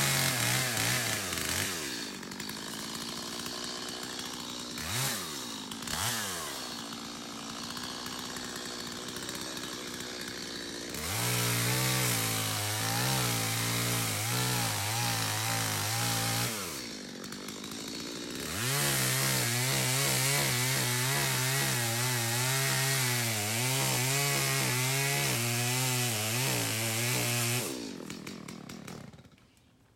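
Stihl MS250 two-stroke chainsaw idling with a few quick throttle blips, then held at full throttle twice for several seconds each, its pitch wavering as it works through wood. Near the end it drops back and shuts off.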